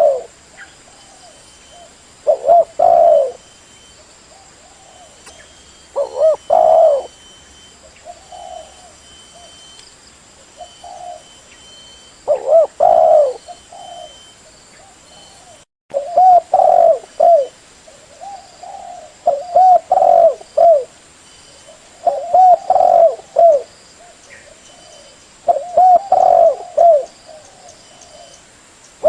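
Spotted dove (tekukur) cooing: a low, rolling phrase of several coos, repeated every two to four seconds, with fainter coos between the loud phrases. The sound cuts out for an instant about halfway.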